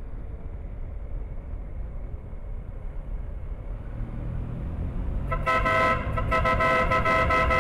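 Motorcycle running along a road with a steady low rumble of engine and wind, then about five seconds in its horn is sounded in a string of quick toots, with a short break before a second run of toots.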